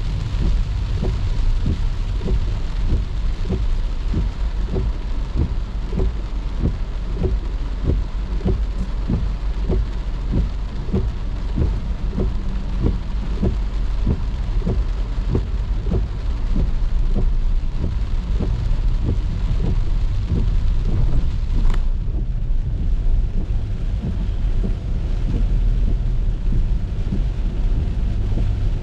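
Heavy rain falling on a moving car: a steady hiss over a low rumble, with frequent short knocks of drops striking about twice a second. About three-quarters of the way in there is a single sharp click, after which the rain sounds duller.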